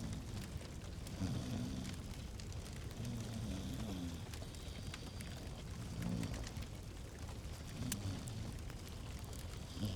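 Fireplace fire crackling, with scattered sharp pops over a steady low rumble.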